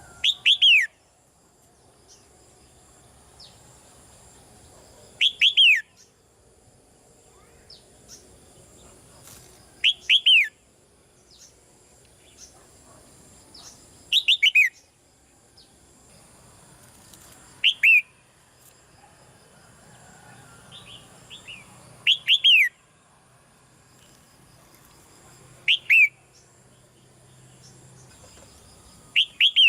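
Red-whiskered bulbul calling: loud, short bursts of two or three quick falling notes, repeated about every four seconds.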